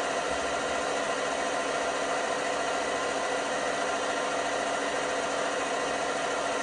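LG washing machine running, a steady motor hum with several even tones over a noisy rush.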